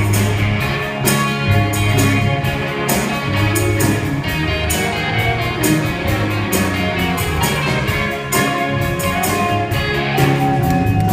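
Band music with a guitar, a strong bass line and a steady drum beat.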